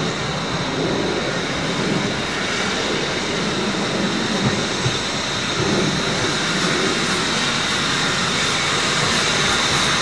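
Steam locomotive at the platform giving off a steady hiss of escaping steam, with no exhaust beats heard.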